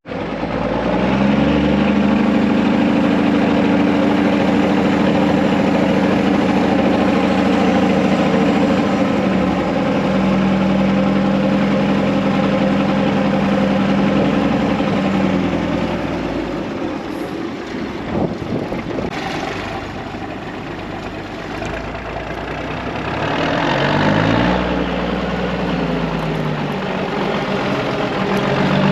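Heavy diesel engine of farm harvest equipment running. Its pitch climbs about a second in and holds steady, drops and runs lower for several seconds midway, then climbs again twice near the end.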